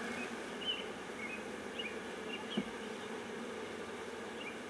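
Honeybees buzzing in a steady hum over an open hive, with one brief knock a little past halfway.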